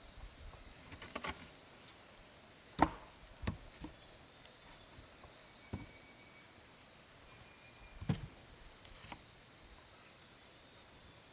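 Irregular sharp knocks of wood being struck or chopped, about six over the stretch, the loudest about three seconds in and again about eight seconds in.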